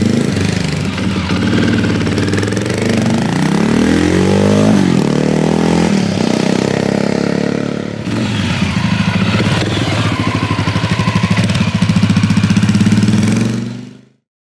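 FMX 650 motard engine running through aftermarket Dominator silencers, idling with a quick rev that rises and falls in pitch a few seconds in. The sound cuts off suddenly near the end.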